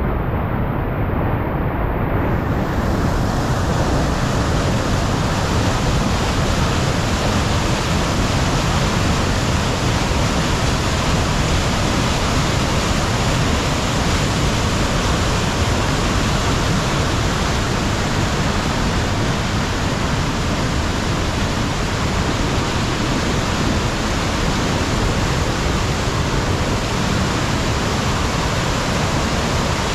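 Bingham Falls rushing in a loud, steady roar, running high with rainwater.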